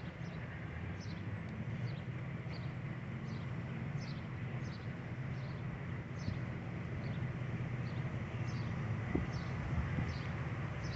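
Fire engine idling with a steady low rumble. Over it a bird gives short, high chirps that fall in pitch, repeating about twice a second.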